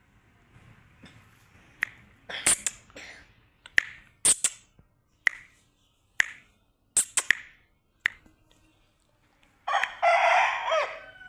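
Aseel rooster crowing once near the end, a long loud call that falls in pitch. Before it come about ten short, sharp sounds spaced roughly a second apart.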